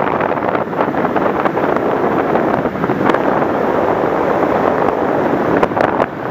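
Steady wind rushing over the microphone of an FPV model plane's onboard camera in flight, with a few faint clicks near the end.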